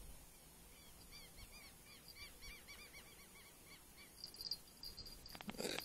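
Faint birdsong: a small bird gives a quick run of short, repeated chirping notes for about three seconds, followed by a thin, steady high note. A short scraping noise comes near the end.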